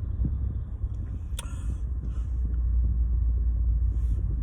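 Low steady rumble inside a parked car, with a single sharp click about a second and a half in.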